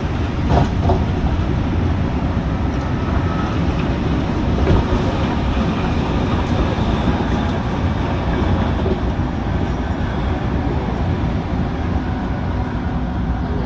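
MTR Tung Chung line CAF electric train running along the track, a steady rumble of wheels and car body with a few faint clicks from the rails.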